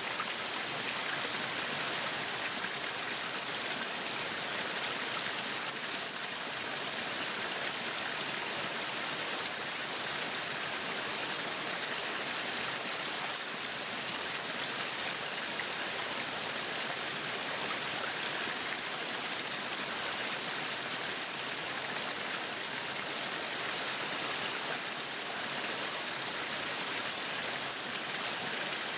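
Meat sizzling on a yakiniku grill: a steady hiss with fine crackling that keeps an even level throughout.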